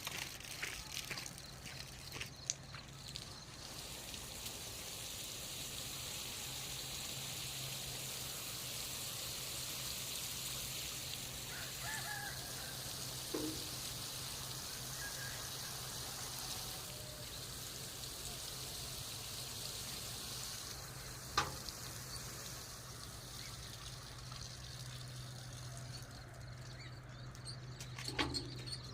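Water running or spraying steadily, a hiss that swells after the first few seconds and eases later on, with a sharp knock about two-thirds of the way through.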